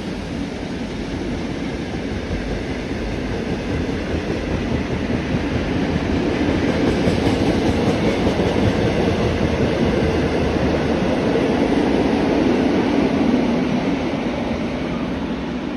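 Passenger carriages of a steam-hauled train rolling past on the rails, a steady running noise that swells, then begins to fade near the end as the train draws away.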